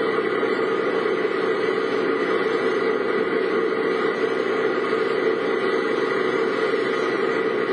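Steady driving noise of a car on the road, engine and tyre noise as picked up by a camera mounted on the vehicle.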